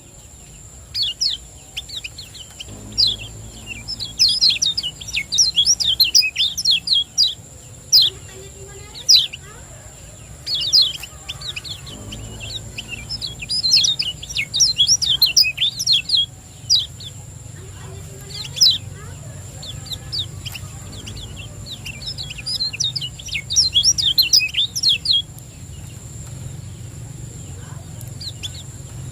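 Kecial kuning (white-eye) singing in repeated bursts of quick, falling high chirps, each burst lasting a second or a few seconds with short pauses between. A steady high-pitched tone and a low hum run underneath.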